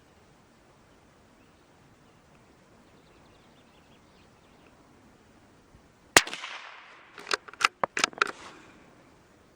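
A single .22 LR rifle shot from a Brno (CZ) bolt-action rifle firing a CCI Velocitor round, with a short ringing tail, followed about a second later by five quick sharp metallic clicks as the bolt is worked.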